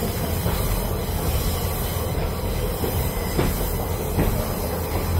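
Steady rumble and running noise of a moving passenger train, heard from inside the carriage, with a few faint clicks.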